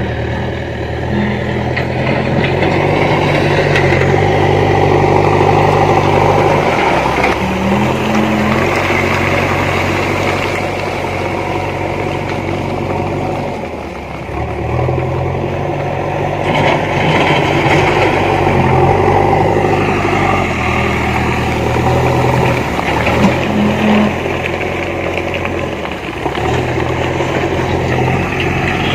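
JCB backhoe loader's diesel engine running while it works, its note strengthening and easing every few seconds as the machine takes load.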